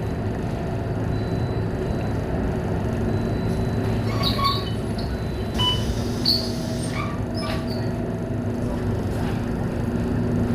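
Scania K230UB single-deck bus running with a steady engine drone. A few short, high squeaks and clicks come through it about halfway.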